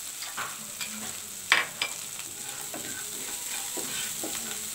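Ground spice paste of coriander, cumin, garlic and chilli sizzling in oil in a non-stick wok while a spatula stirs and scrapes it; the paste has been fried until the oil separates. A sharp click about a second and a half in is the loudest moment.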